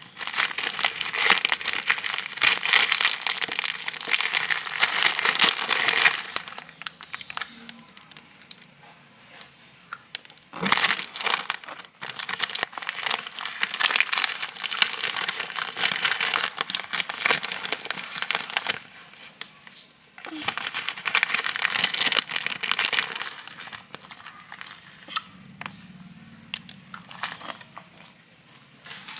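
Plastic packet of mie kremes, a crispy fried-noodle snack, crinkling and crackling as it is handled, in three long spells with quieter gaps between.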